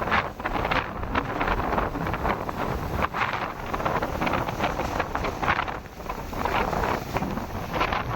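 Strong wind gusting and buffeting the microphone, a dense rushing noise that swells and falls, with a brief lull about six seconds in.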